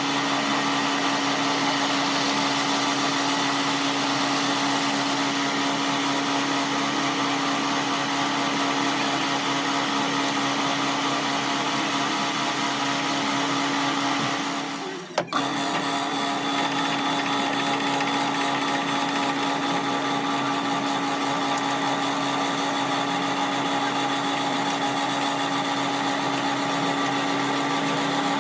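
A motor-driven workshop machine running steadily with a constant hum and hiss, broken off for a moment about halfway through.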